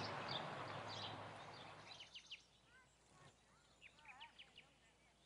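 Faint ambient noise fading out over the first two seconds, with scattered bird chirps; birds keep calling with short sharp chirps and a few little warbled notes between about two and four and a half seconds in.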